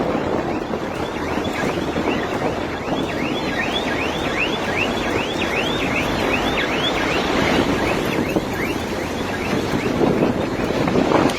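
Strong wind roaring over the microphone, with a rapid high chirping warble repeating about three times a second, loudest through the middle.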